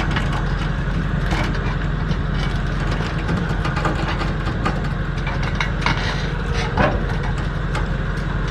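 An engine idling steadily, with scattered short knocks and clanks over it.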